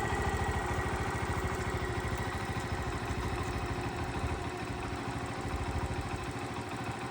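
Honda CT50's small single-cylinder four-stroke engine idling steadily with an even, rapid putter, freshly rebuilt after a full overhaul.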